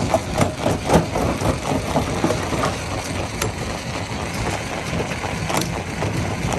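Heavy diesel machinery running steadily with a low rumble, with a few sharp knocks in the first second and another at about five and a half seconds.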